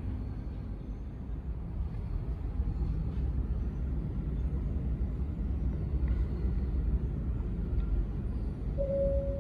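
Low, steady outdoor rumble that slowly swells. Near the end two short steady tones sound, the second lower than the first.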